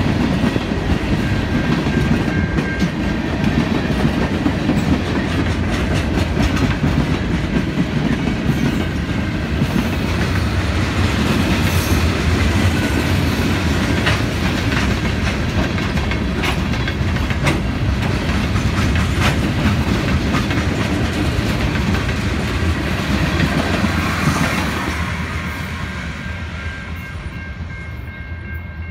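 Freight train cars rolling past close by: a steady heavy rumble of steel wheels on rail, with a run of sharp clicking clacks over the rail joints. Near the end the rumble fades as the last car passes and the train moves away.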